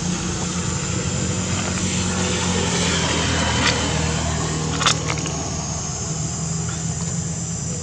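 A motor vehicle engine running steadily, with two short sharp clicks near the middle.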